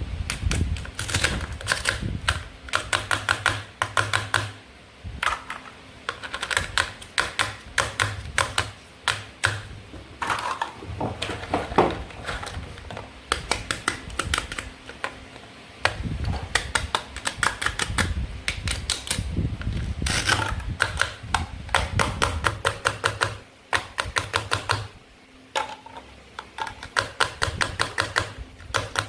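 Toy food being cut and handled: rapid runs of sharp plastic clicks and taps in bursts of a second or two, with short pauses between them.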